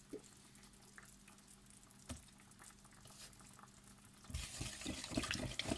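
Chicken adobo bubbling and sizzling in a pot on high heat, with a few light clicks, growing louder and busier from about four seconds in.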